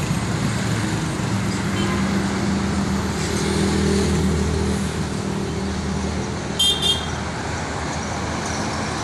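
Road traffic with a vehicle engine running steadily close by, and two short, high-pitched horn beeps in quick succession about two-thirds of the way in.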